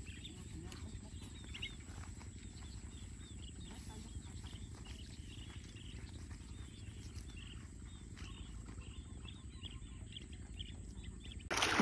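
Birds chirping faintly, many short calls in no steady rhythm, over a steady low rumble. Near the end a sudden loud rush of noise cuts in.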